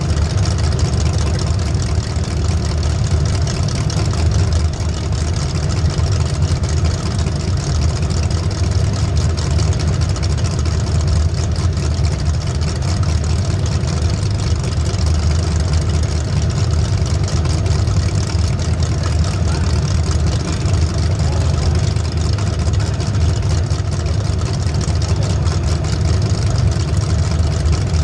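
Race vehicle's engine running steadily under load, a constant low rumble with noise over it that does not rise or fall.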